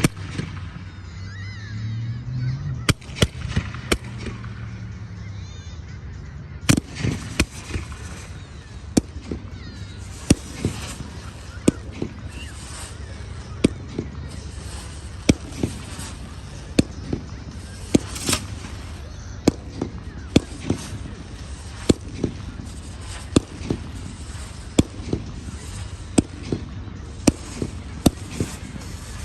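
Low-noise fireworks going off in a steady run of sharp pops, about one or two a second, starting about seven seconds in and going on without a break.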